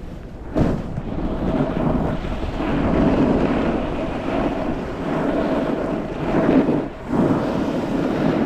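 Snowboard sliding and carving over snow, a steady scraping rush with wind buffeting the microphone. The noise picks up sharply about half a second in and dips briefly near the end.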